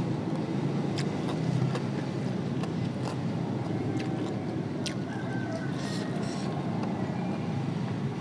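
Close-up eating sounds: chewing with a few sharp mouth clicks, over a steady low rumble.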